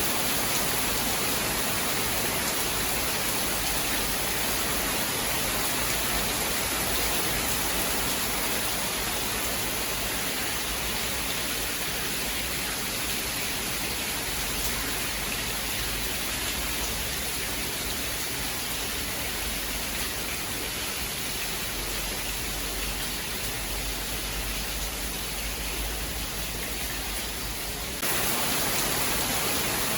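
Steady hiss of heavy rain with no distinct thunderclap; near the end the sound suddenly gets louder and brighter.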